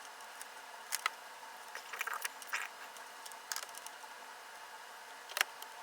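Small clicks and short scraping rustles of electronic parts and hand tools being handled during capacitor replacement on a valve amplifier chassis. There are a handful of brief sounds, the sharpest near the end, over a faint steady hiss.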